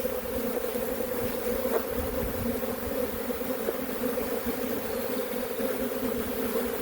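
Honeybee swarm buzzing: a steady, dense drone of many bees flying close around.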